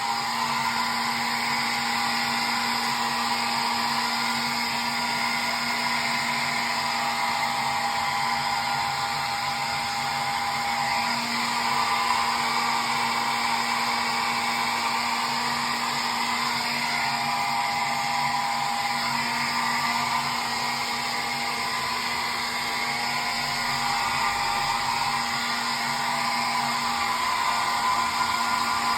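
Hair dryer running continuously: a steady rush of blown air with a low motor hum and a higher fan whine held at one pitch.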